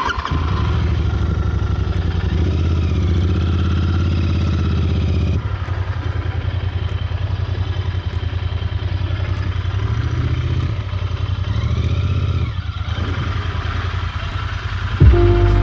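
Cafe racer motorcycle engine running steadily while riding, its note changing about five seconds in. Music comes in near the end.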